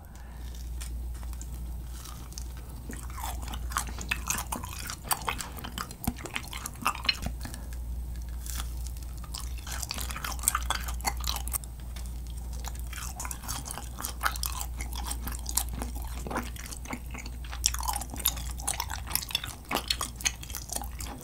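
Close-miked chewing of grilled kirimochi (Japanese rice cake) dipped in soy sauce: a continual run of short wet mouth smacks and sticky clicks over a steady low hum.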